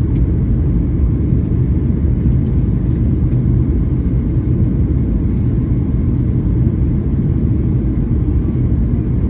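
Airliner cabin noise in flight: a steady low rumble of the engines and airflow, with a few faint clicks.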